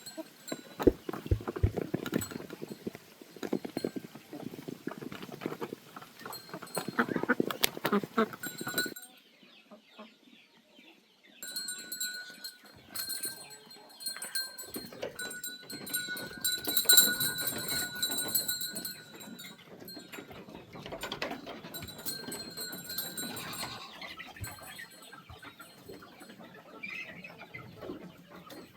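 Farmyard animal sounds, with chickens clucking among them; a short near-quiet gap about nine seconds in.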